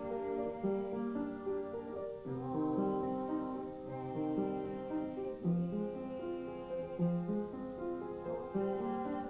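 Piano playing a song's chords and melody, the notes changing about every half second to a second.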